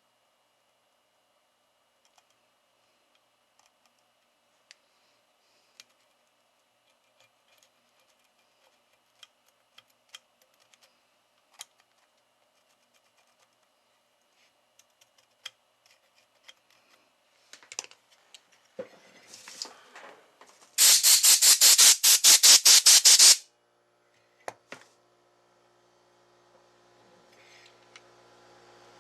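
Light clicks and taps of small parts and hand tools on a workbench, then a loud, harsh burst of rapid pulses lasting about two and a half seconds. Near the end a steady hiss with a low hum starts up and grows louder.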